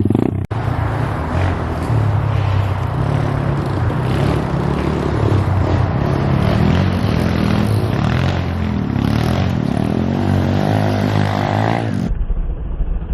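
Pit bike engine revving hard, its pitch rising and falling again and again as the rider works the throttle. The sound drops out briefly about half a second in and changes abruptly near the end.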